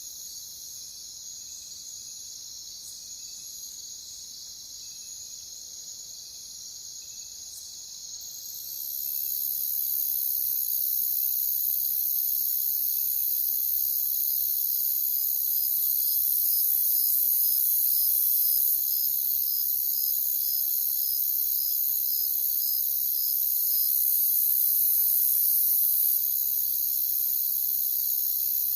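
Crickets chirping in a steady, continuous chorus. About eight seconds in, a second, higher-pitched trill joins and the sound grows clearly louder.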